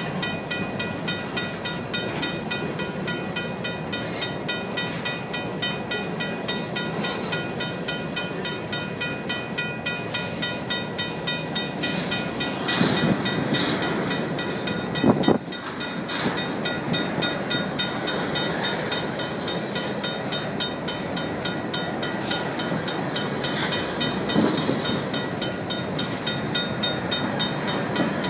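Loaded covered hopper cars of a Union Pacific grain train rolling past with a steady wheel-on-rail rumble and clatter. Over it the crossing's RACO mechanical bell rings steadily in even strokes. A sharp thump comes about fifteen seconds in.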